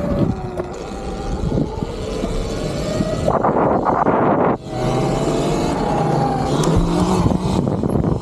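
Electric dirt bike under way: the motor's whine slowly rises and falls in pitch over a rush of wind and road noise. A loud rushing gust lasts about a second, starting around three seconds in.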